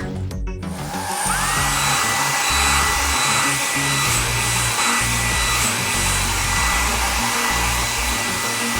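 Cartoon car-wash blower sound effect: a steady rushing hiss with a motor whine that rises about a second in and then holds, over the bass of a background music track.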